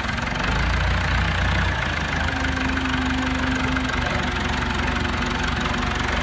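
Tow truck's engine running steadily in a low drone, a little louder briefly about half a second in.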